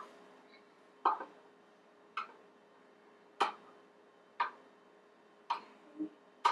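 A stirring utensil tapping against the side of a container as melted soap is stirred: sharp clicks about once a second.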